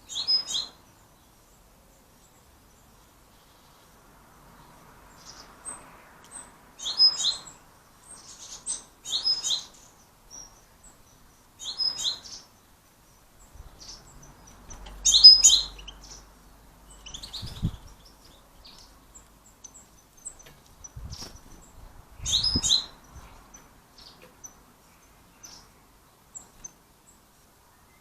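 Small birds chirping at a garden feeder: short bursts of high chirps every few seconds, with gaps between.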